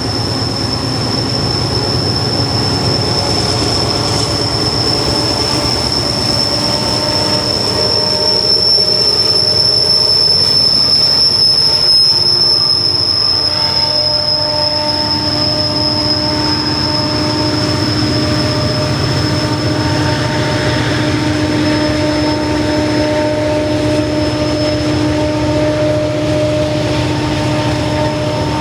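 Freight train cars rolling past at steady speed, wheels rumbling on the rails, with a long, steady, high-pitched wheel squeal over the whole passage and lower squealing tones joining about halfway through.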